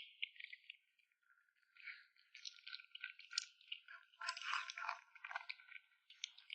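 A kitten chewing and crunching food: irregular runs of small wet crunches and clicks, busiest about four to five seconds in.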